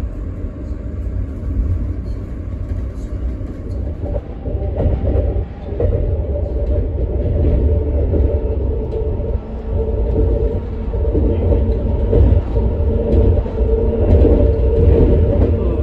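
Metra commuter train rolling along the track, heard from inside a passenger car: a steady low rumble of the wheels on the rails. About four seconds in, a steady hum joins it and grows louder as the loudness slowly builds.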